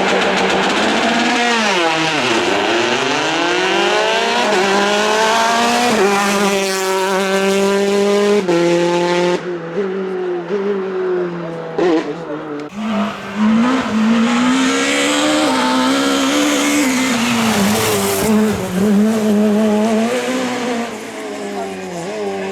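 Rally car engine driven hard on a stage. The revs drop sharply about two seconds in, then climb in steps through the gears. Midway the engine lifts off with a few sharp cracks. It then runs on at wavering, lower revs, with some tyre squeal.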